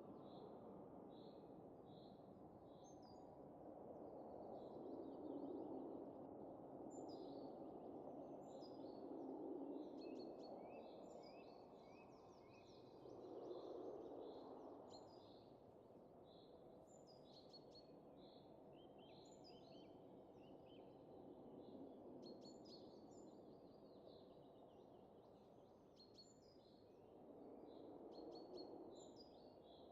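Faint wind rising and easing in slow gusts, with small birds chirping and calling throughout.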